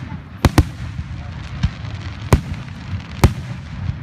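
Aerial fireworks going off in a show: a string of sharp bangs, two in quick succession about half a second in, then single ones, over a steady low rumble.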